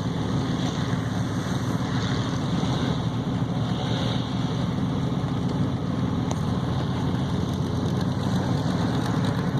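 Truck engine running steadily with a low, even drone and no revving.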